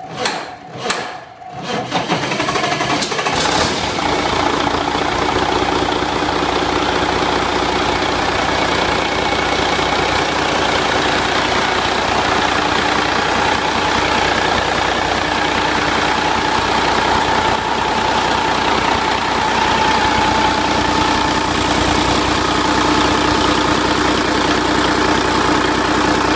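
Cummins N14 Celect Plus inline-six diesel engine cranking on the starter, catching about two seconds in and then idling steadily.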